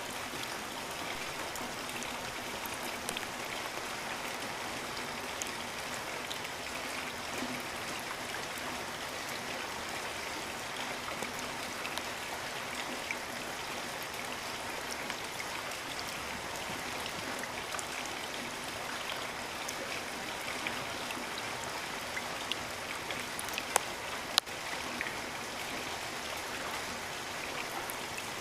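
Steady rain falling, a continuous even hiss with scattered drop ticks. Two sharper drip clicks stand out near the end.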